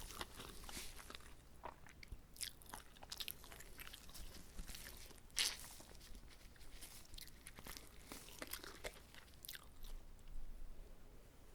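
Close-up chewing and biting of a whole uncut gimbap roll, a seaweed-wrapped rice roll: irregular crunches and wet, sticky mouth clicks. There is one sharp crunch about five seconds in, and the sounds thin out near the end.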